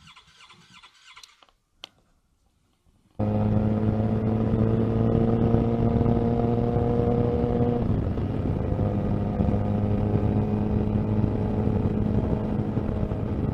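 Motorcycle engine running at a steady cruise of about 60 km/h, with road noise. It cuts in abruptly about three seconds in, after a quiet stretch with one faint click. Its pitch sags slowly and drops a little about halfway through.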